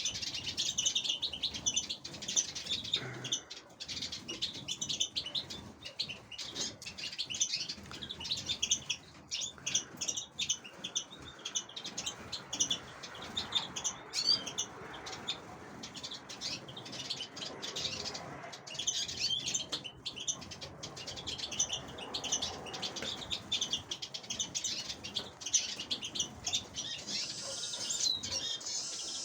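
Aviary birds chirping almost continuously: a dense stream of short, high chirps.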